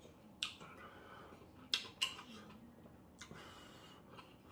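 Eating sounds at a meal: four short, sharp clicks and taps, such as utensils or mouth sounds, spread over a few seconds.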